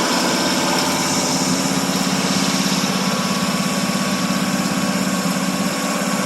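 1978 Pontiac Bonneville's 301 V8 idling steadily after a cold start, with an even, fast pulse.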